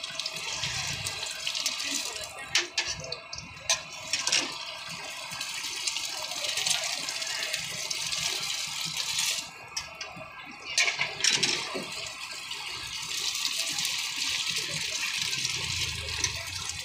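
Egg-coated kabab patty sizzling in oil on a flat steel griddle: a steady frying hiss, broken a few times by sharp clacks of a metal spatula against the griddle.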